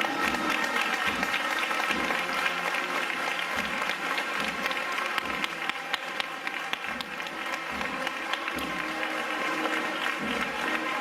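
Crowd applauding, a dense crackle of many hands clapping, with the band's music faintly continuing underneath.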